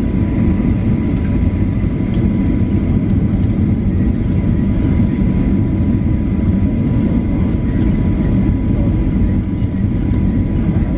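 Steady low roar of an airliner's jet engines, with a faint steady whine above it.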